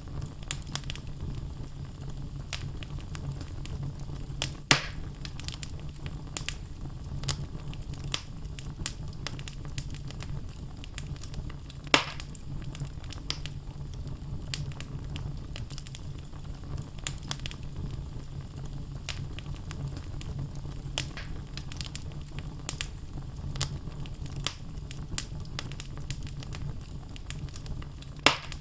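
Wood logs burning in a fireplace: a steady low rumble of flames under constant small crackles. Three louder pops stand out, about five seconds in, about twelve seconds in, and near the end.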